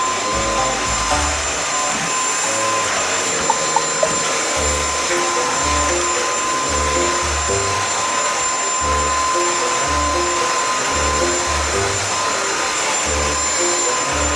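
Cordless cyclone stick vacuum cleaner running steadily with a high motor whine, under background music with a repeating bass line. Three sharp clicks come about three and a half to four seconds in.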